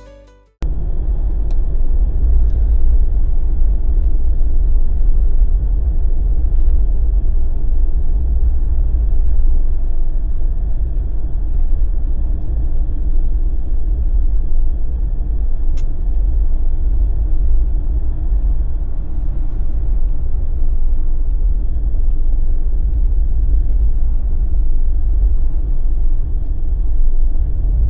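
Steady low rumble of a Jeep's engine and tyres heard from inside the cabin while driving.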